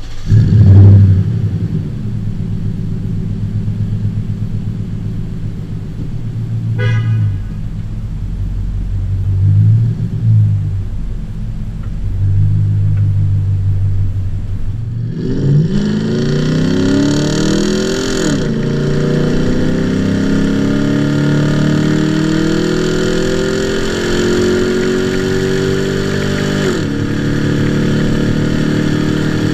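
Toyota Land Cruiser engine through a remote-controlled exhaust cutout: a deep idle rumble with a few blips of the throttle. About halfway the exhaust note turns much brighter and louder as the engine revs up, holds a slowly rising pitch, then drops near the end.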